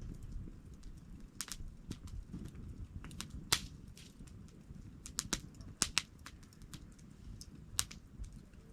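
Campfire of burning wood crackling, with irregular sharp pops over a low steady rumble of flames.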